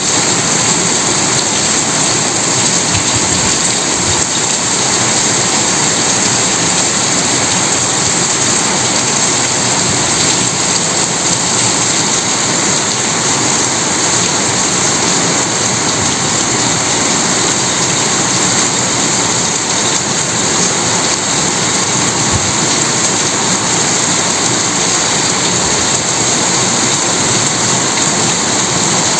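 Rain falling steadily: an even, unbroken hiss of rain with no thunder.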